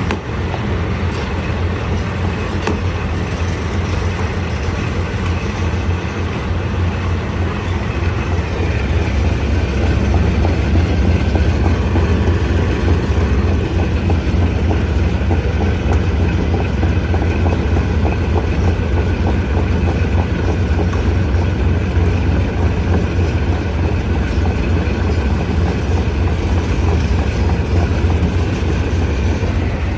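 Stone crusher running: a loud, steady mechanical rumble that grows a little louder about ten seconds in.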